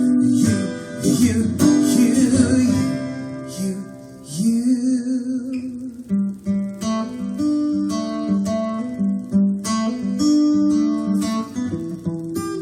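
Acoustic guitar playing the instrumental break of a song: dense strummed chords at first, then a run of short picked notes from about halfway through.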